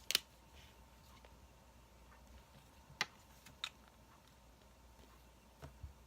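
Wood fire crackling: a few sharp pops and snaps over a faint low background, the loudest just after the start, another about three seconds in, one shortly after, and two close together near the end.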